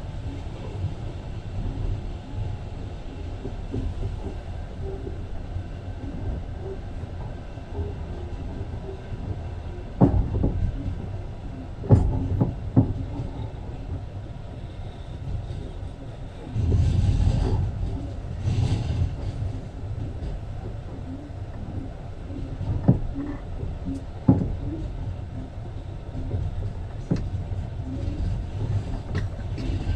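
Passenger train running on the track, heard from inside the carriage: a steady low rumble with a few sharp wheel knocks over rail joints, and a louder rush of noise a little past the middle.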